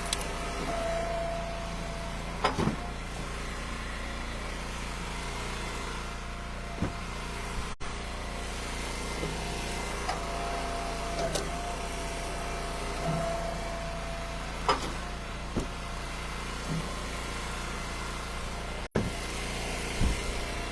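Engine of an Eastonmade Ultra hydraulic wood splitter running steadily, with a higher tone that rises and fades a few times as the splitter works. Scattered sharp knocks of split ash wood land and strike.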